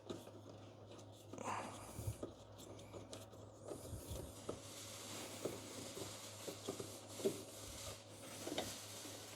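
Faint hand work on plastic air-intake parts while screws are driven in: soft rubbing with scattered light clicks and taps over a steady low hum.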